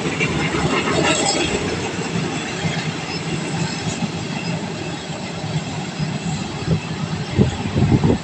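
A train running along the tracks, a steady rumble with a few sharp wheel knocks over rail joints near the end.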